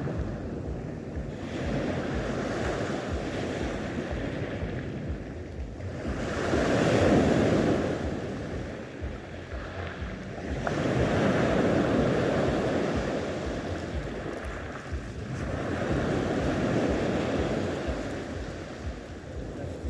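Sea waves breaking and washing onto the shore, the surge swelling and falling back about every five seconds, with wind rumbling on the microphone.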